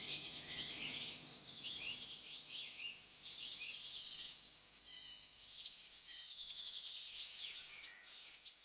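A chorus of several birds chirping and trilling over one another in quick, overlapping calls, thinning briefly around the middle.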